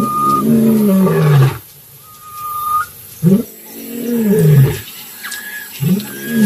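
Lion roaring: three long, deep calls about three seconds apart, each falling in pitch.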